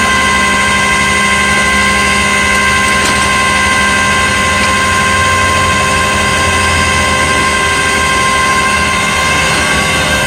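Tow truck running steadily during loading, a continuous engine drone with a steady mechanical whine over it.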